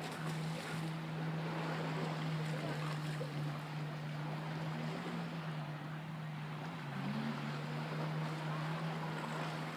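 Steady low motor hum over a wash of wind and water noise; the hum's pitch shifts slightly about seven seconds in.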